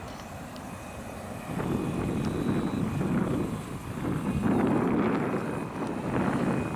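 Distant, low rumble of a departing Airbus A330-300's Rolls-Royce Trent 700 jet engines, growing louder about a second and a half in and then swelling and fading unevenly, mixed with wind buffeting the microphone.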